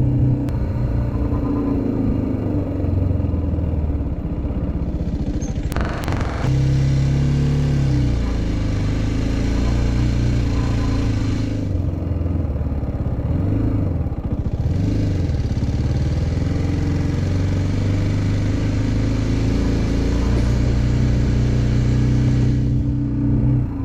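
Motorcycle engine running on the move, its pitch dipping and recovering twice around the middle. There is a sharp knock about six seconds in, and a rushing noise comes in and drops out twice.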